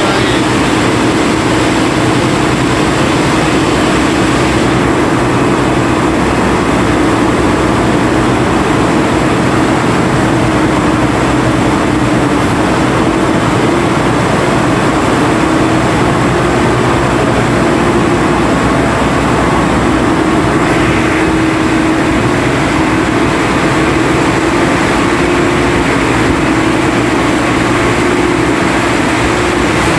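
The heavy engine of an ore-suction dredge boat running steadily at constant speed, a loud, unbroken hum.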